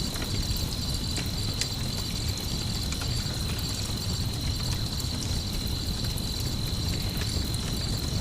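Night ambience mix: insects chirping in a fast steady pulse, a campfire crackling with scattered sharp pops, and a low steady rumble underneath.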